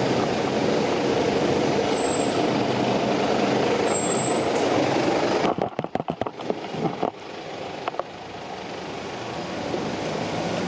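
A heavy vehicle's engine running close by with a steady rushing noise. The noise breaks up in several sharp dropouts about halfway through, then comes back quieter and gradually builds again.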